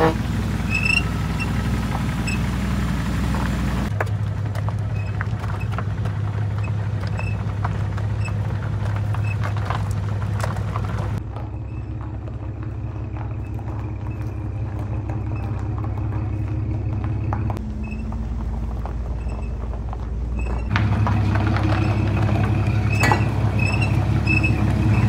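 A Jeep Wrangler JK's engine running at low speed as it pushes a Jeep Grand Cherokee, with tyres crunching over gravel. The engine tone and level jump abruptly a few times.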